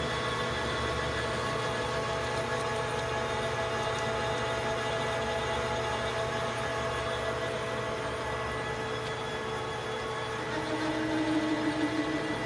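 Metal lathe running steadily while a small steel thread protector is turned to length, a steady machine hum with several fixed tones. Near the end a louder pulsing tone joins for a second or so as the tool cuts.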